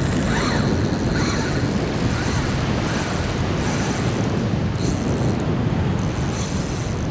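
Wind buffeting the microphone, a steady low rumble with no clear single event.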